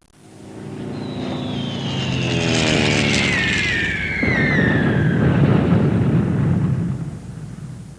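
Aircraft engine drone passing over while a bomb's whistle falls steadily in pitch for about four seconds, then a deep rumbling explosion from about four seconds in that dies away near the end.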